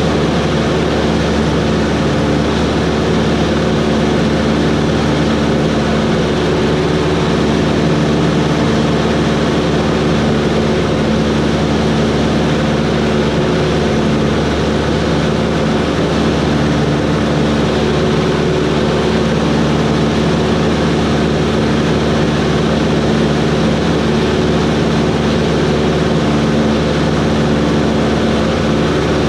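Cessna 140's light-aircraft engine and propeller running at a steady speed, one even drone that does not rise or fall.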